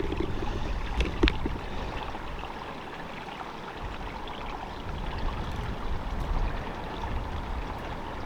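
Gusty wind buffeting the microphone, a fluctuating low rumble and rushing noise, with two short knocks about a second in.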